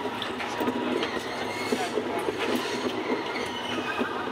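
Alishan Forest Railway narrow-gauge train running along the track, a steady rolling noise with short clicks of the wheels over rail joints and a thin wheel squeal in the second half.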